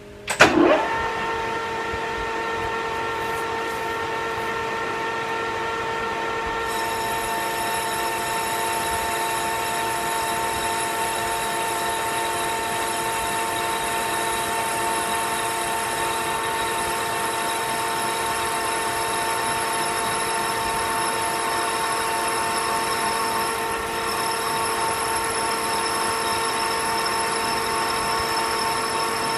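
Metal lathe starting up and spinning up, then running steadily with a whine of several even tones while turning cold-rolled steel. About seven seconds in, a higher, thin tone joins and holds.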